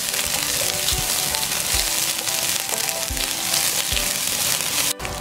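Sliced lemongrass, lime leaves and garlic sizzling steadily in hot oil in a non-stick pan as a spatula stirs them, with soft background music. The sound cuts out for an instant near the end.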